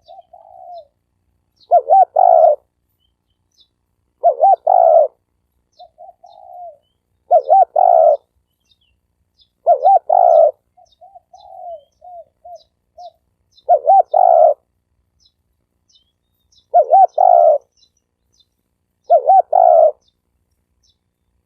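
Spotted dove cooing, a decoy bird's lure call: seven loud coo phrases of under a second each, repeated about every two to three seconds, with softer short coos between them.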